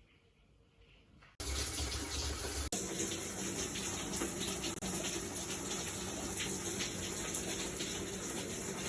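Water running steadily from a tap, starting abruptly about a second and a half in.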